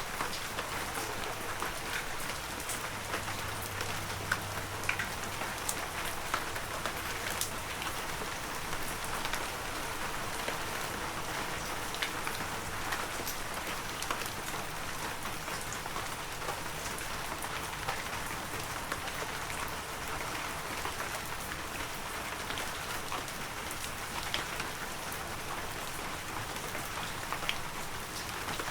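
Steady heavy rain falling on foliage and ground: an even hiss with many sharp individual drop hits scattered through it.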